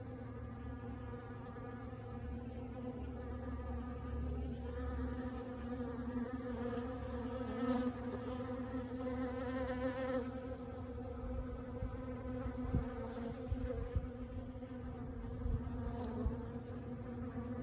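A swarm of honey bees buzzing together in a steady, droning hum.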